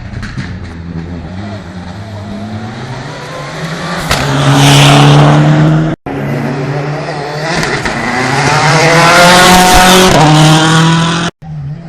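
Rally car engines revving hard, pitch climbing as the cars accelerate past close by, twice; each pass grows loud and then cuts off suddenly.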